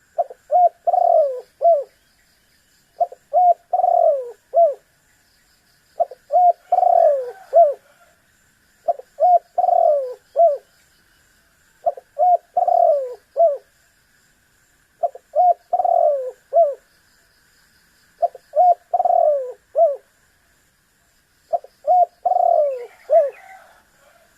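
Spotted dove (tekukur) cooing: a phrase of several short coos with one longer falling note, repeated eight times about every three seconds, over a faint steady high buzz.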